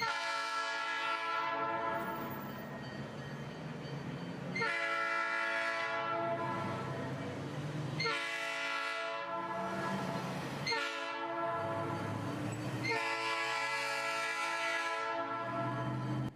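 Train horn sounding a run of about five long blasts, back to back, as the train runs through a street crossing.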